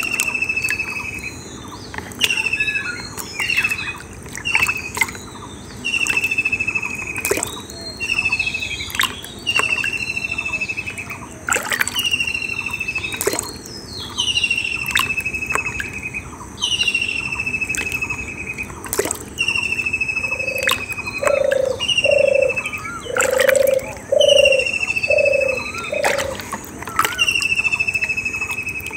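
A bird calling over and over, a falling whistle about every two seconds, with sharp clicks scattered between the calls. About twenty seconds in comes a run of six short, low hoots.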